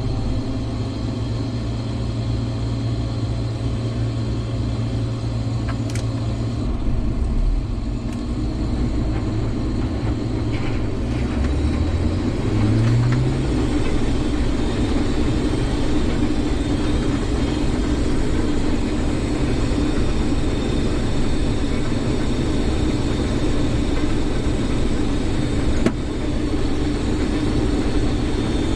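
Combine harvester engine and machinery running steadily. About twelve seconds in, the low hum rises in pitch and gets a little louder.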